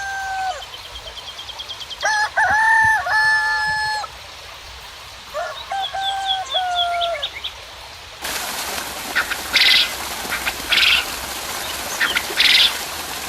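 Roosters crowing, three long crows held then dropping at the end, with rapid high chirps of small birds between them. About eight seconds in, a steady rain hiss starts suddenly, with a few short sharp bursts over it.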